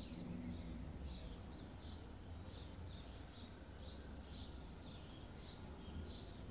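A bird chirping over and over, short high downward-sweeping chirps at about three a second, over a low steady background rumble.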